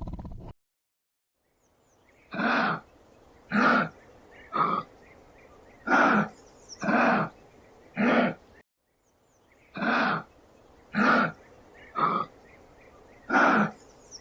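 An animal giving short calls, each under half a second, about one a second: six in a row, then after a short break the same run of six again. A lower, denser sound cuts off about half a second in.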